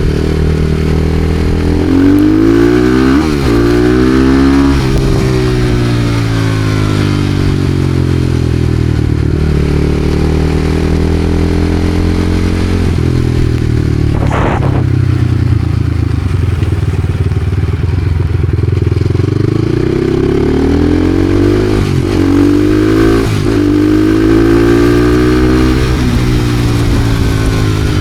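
Supermoto motorcycle engine revving up and down as it is ridden, its pitch climbing under throttle and dropping back at gear changes, with the longest pulls about two seconds in and again past the two-thirds mark. A brief sharp sound near the middle.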